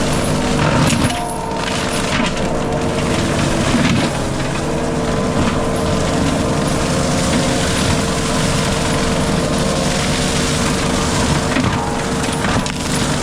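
JCB Teleskid 3TS-8T diesel track loader running a FECON hydraulic forestry mulcher head: a steady engine drone and drum whine, with sharp cracks as brush and small trees are chewed up.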